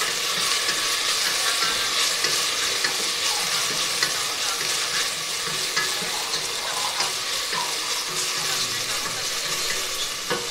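Chopped onions, garlic, ginger and green chillies sizzling in hot oil in a pan, stirred with a wooden spatula that scrapes and taps against the pan now and then.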